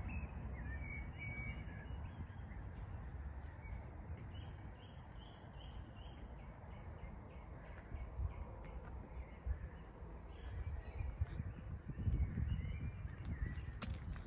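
Outdoor ambience: small birds chirping and singing, including a quick series of repeated notes a few seconds in, over a low rumble that swells about twelve seconds in.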